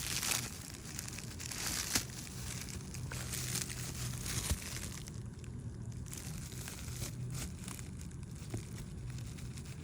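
Packaging being handled, crinkling and rustling in irregular bursts, with a couple of sharp clicks.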